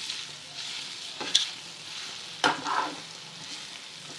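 Green chillies and spices frying gently in a pan on a low flame, a soft steady sizzle, with a spoon scraping across the pan twice as they are stirred.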